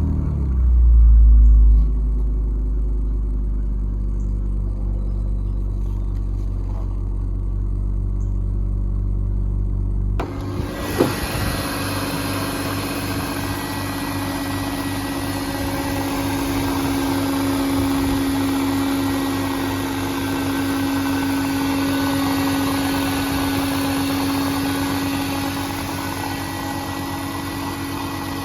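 Car engine just after a cold start: a short high-rev flare in the first two seconds, then settling into a steady idle. About ten seconds in, a hiss and a steady hum come in abruptly over the idle.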